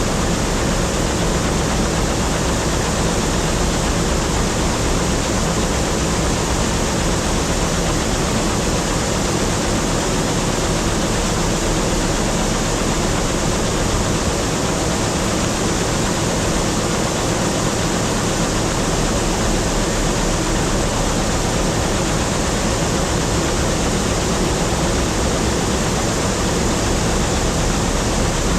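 An old 4400 combine harvester running steadily: an even, loud machinery rush with a low engine hum underneath.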